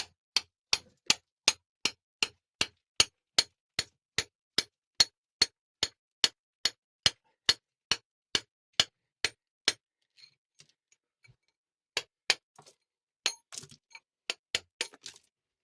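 A regular series of sharp clicks or taps, about three a second, that stops about nine seconds in; a few irregular clicks follow near the end.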